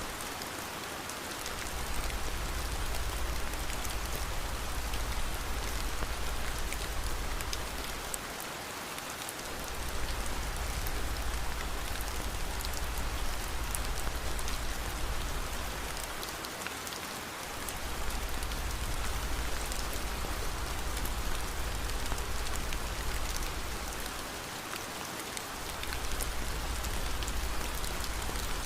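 Steady rain falling, an even hiss of drops with a low rumble underneath that fades out briefly about every eight seconds.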